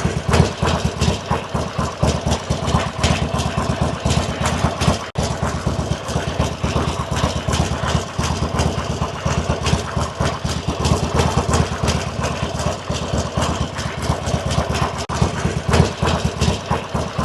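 Harley-Davidson V-twin motorcycle engine idling with a rapid, uneven beat.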